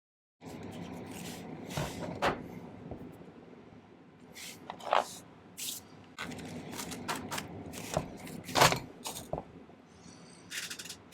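Irregular knocks and scrapes of hand tools and metal being handled on a jeweller's workbench, with several sharp clacks.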